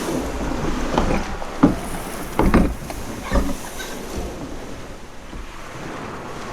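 Small waves washing on the beach around a rowed dinghy in the shore break, with a few knocks and splashes in the first few seconds before it settles to a quieter wash.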